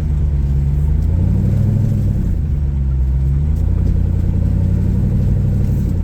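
Jeep engine revving under load as it tries to crawl up a rock obstacle, the engine note rising and falling twice.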